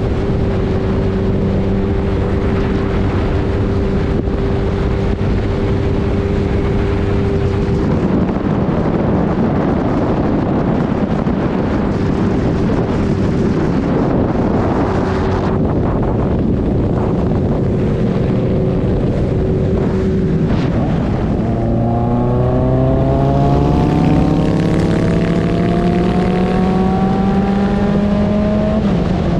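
An engine running at a steady speed over wind noise, then speeding up with a steadily rising pitch over the last several seconds.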